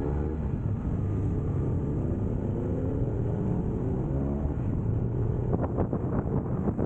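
Motorcycle engine running while riding, its pitch rising and falling a few times with the throttle.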